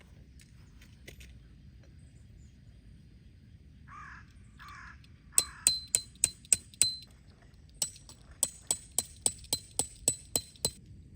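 Three crow caws, then metal striking metal in two quick runs of sharp, ringing blows, about three a second: tent stakes being hammered in.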